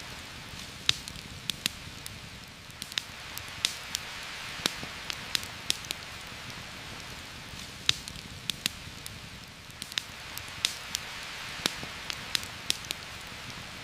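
Steady rain hiss with a campfire crackling over it: irregular sharp pops scattered through an even wash of falling rain.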